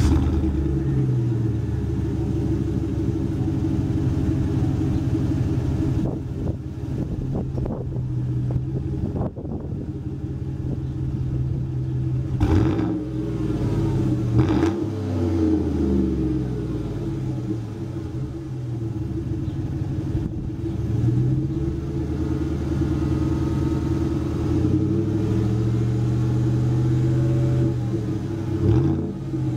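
GM truck engine breathing through a stainless Borla S-type catback exhaust with dual rear outlets, idling with a deep rumble and revved several times, the pitch climbing and falling back, most clearly around the middle and again near the end.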